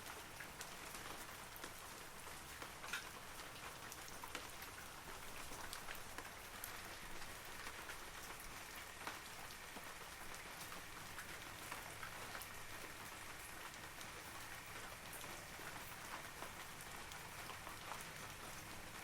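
Steady rain falling on forest trees and foliage, a continuous patter with many individual droplets ticking through it.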